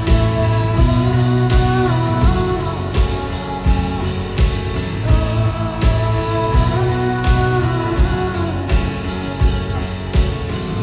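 Rock band playing live, with guitars and a steady drum beat under a sung melody.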